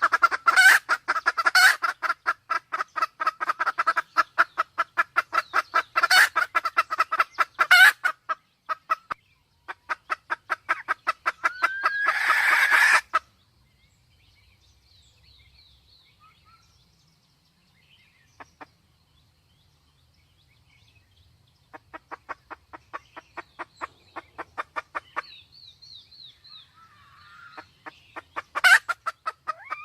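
Red junglefowl hen calling in long, fast runs of clucks, with a brief louder harsh burst about twelve seconds in, a quieter gap, and another run of clucks in the second half.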